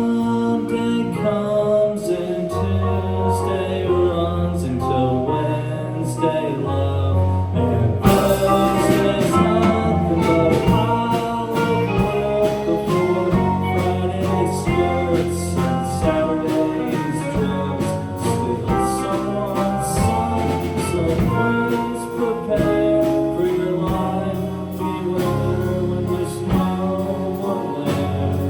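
A live band playing a song with singing. About eight seconds in the music gets louder and brighter, with cymbal strokes joining in.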